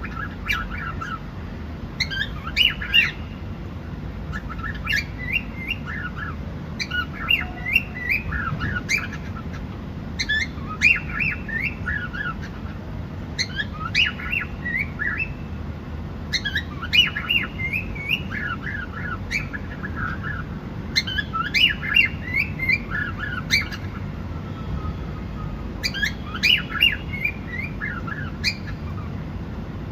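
Cockatiel chirping in short, quick runs of notes that repeat about every two seconds, over a steady low hum.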